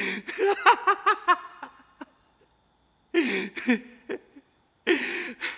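A man's wordless vocal outbursts in three breathy bursts of short pitched pulses, an emotional laugh-like or sob-like gasping in an acted scene.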